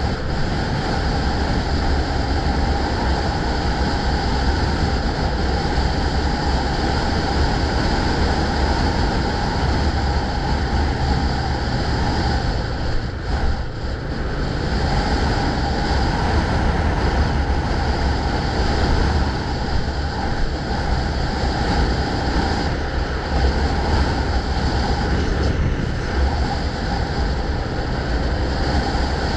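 Steady wind rushing over the microphone of a moving bike, mixed with road and traffic noise. It eases briefly about halfway through.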